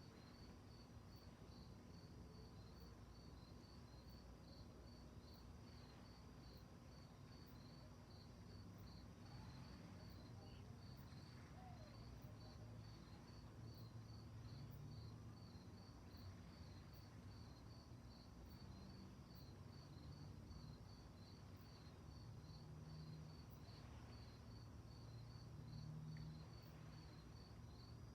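Crickets chirping at night in a steady, even rhythm of a few chirps a second, faint, over a soft low rumble.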